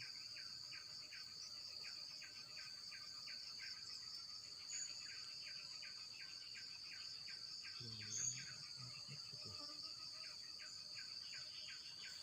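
Faint insect chorus outdoors: a steady high-pitched drone with a repeating chirping call about four times a second, and two brief higher chirps. A short low rumble comes about two-thirds of the way through.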